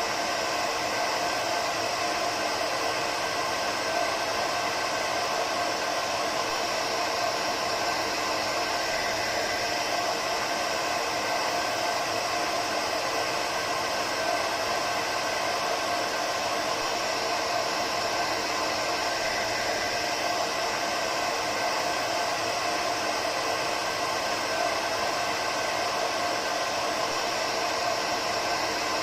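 Hair dryer running steadily: a constant rush of air with a faint steady hum.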